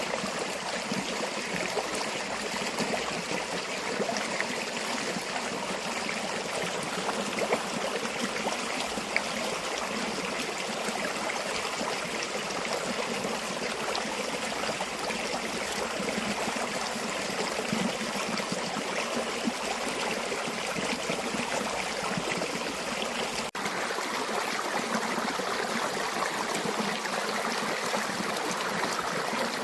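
A river flowing steadily, a continuous trickling and splashing of water, with a momentary break about three-quarters of the way through.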